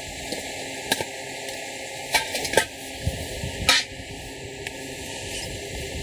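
Cooking utensils knocking and clinking: a single tap about a second in, a quick cluster of knocks around two seconds, and the loudest knock near four seconds in.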